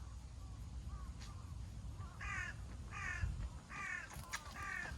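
A crow cawing four times, about one harsh call a second, over a low steady rumble.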